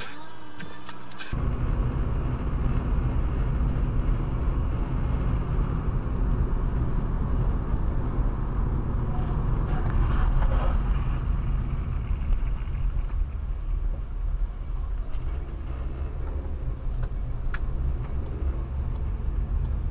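Car driving on the road as heard through a dashcam, a steady low rumble of engine and tyre noise that starts about a second in and cuts off at the end.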